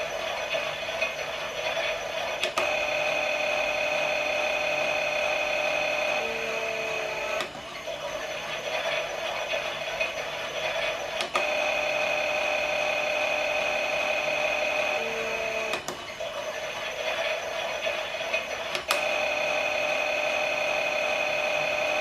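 Toy Klein Miele washing machine's small electric motor whining steadily as it turns the drum, alternating between louder and quieter stretches. A sharp click marks each change, about every four seconds, sometimes just after a brief falling tone.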